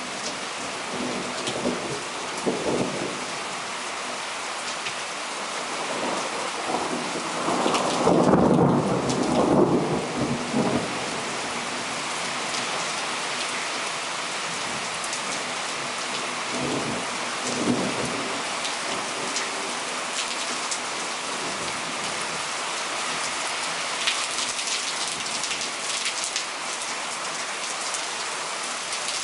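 Heavy rain pouring down steadily during a frontal thunderstorm, with thunder rumbling. The loudest roll of thunder comes about a third of the way in, and fainter rolls come near the start and around the middle.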